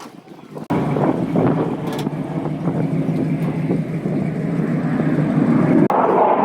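A loud vehicle engine running steadily. It cuts in abruptly about a second in, breaks off briefly near the end, and carries on brighter.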